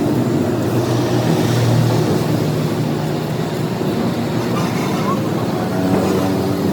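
Vehicle engines running steadily in road traffic, a low drone with a constant hum of traffic noise.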